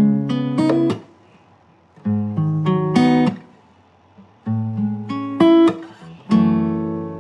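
Acoustic guitar playing a song intro: four short phrases of picked chords with brief pauses between them, the last chord left ringing and fading.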